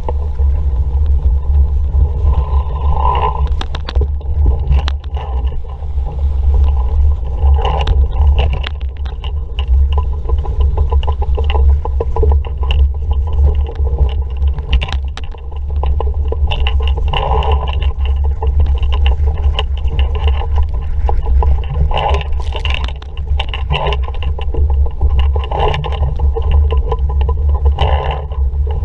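Strong wind buffeting the microphone of a sailing dinghy's on-board camera, with water rushing along the hull and short splashes and slaps. The rumble is loud and steady, with brighter surges every few seconds.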